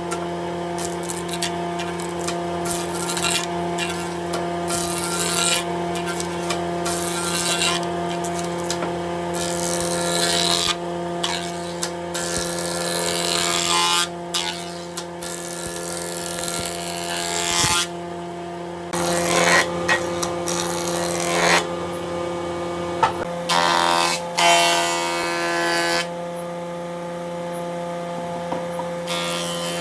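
An electric power tool running with a steady motor hum. Repeated bursts of hiss come and go as it works into wood.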